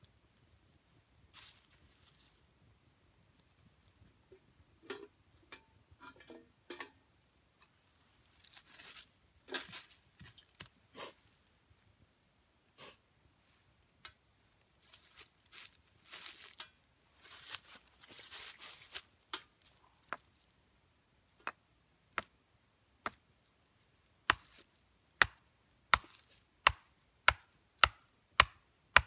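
Twigs being handled and snapped, with scattered cracks and rustles. Then comes a steady run of sharp wooden knocks, roughly one every two-thirds of a second, as small firewood is chopped.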